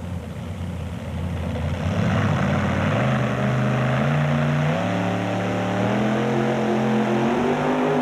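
1985 Ford pulling truck's engine at full throttle pulling the sled down the track. A loud, steady note builds over the first couple of seconds and then climbs in pitch in steps as the run goes on.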